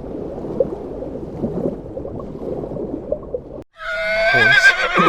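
A low, rough sound without a clear pitch runs for the first three and a half seconds and then cuts off. About four seconds in, a horse whinnies loudly: a high, wavering call that drops in pitch at the end.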